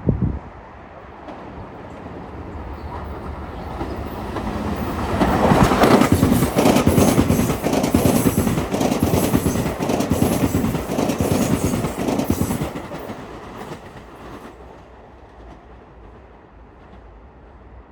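Metro-North commuter train passing through the station, its wheels clicking rapidly over the rail joints. It swells, stays loud for several seconds, then fades away near the end.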